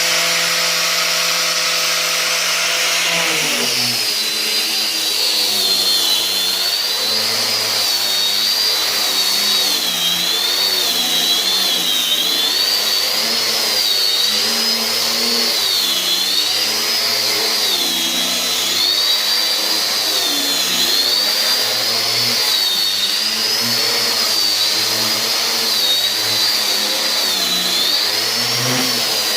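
Carpenter's electric power tool running: its motor holds a steady pitch for about three seconds, then the pitch wavers up and down every second or two as the tool is worked under changing load.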